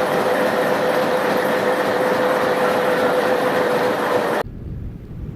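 A train running past on the rails: a loud, steady rush of wheel noise with a steady squealing tone over it. It cuts off abruptly about four seconds in, leaving a quieter low rumble.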